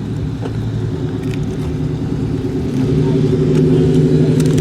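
A car engine running steadily, growing louder about three seconds in.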